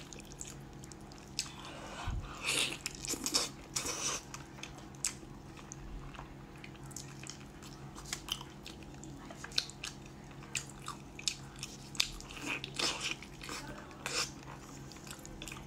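Close-miked eating of braised meat on the bone: chewing, biting and tearing meat from the bone, with many short wet smacks and clicks and a few louder bites.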